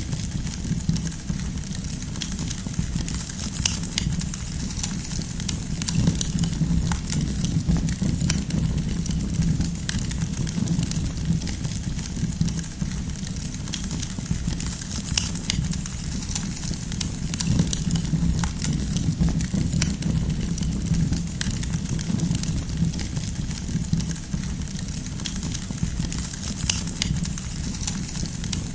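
Wood campfire burning with a steady low rumble of flame, topped by frequent sharp crackles and pops from the burning firewood.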